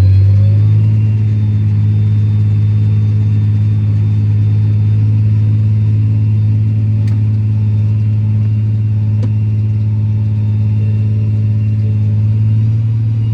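Tractor engine pulling a grain cart across the field, a steady low drone. Its pitch rises slightly in the first second as it picks up speed, then holds even.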